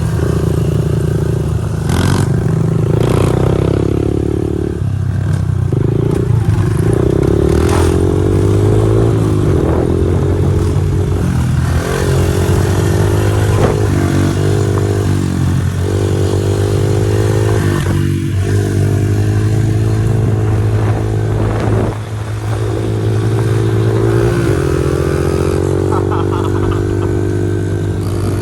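Pit bike engine running hard as the bike is ridden, its pitch climbing and dropping again and again as the rider revs and eases off.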